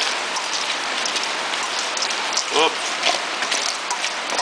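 Heavy rain pouring down in a steady, dense hiss, with a few light clinks of a fork stirring soaked wood chips in a stainless steel bowl.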